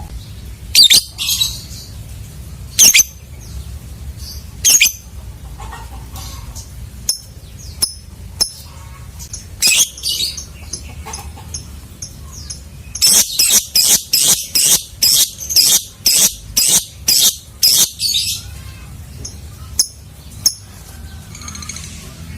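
Lovebird giving loud, shrill calls: a few single sharp calls a couple of seconds apart, then a rapid run of about a dozen calls, some two a second, lasting about five seconds.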